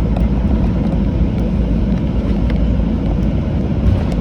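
Steady low rumble inside the cabin of a Boeing 737-800 taxiing on the ground, its CFM56 engines at idle and the airframe and wheels rolling, with a few faint light rattles.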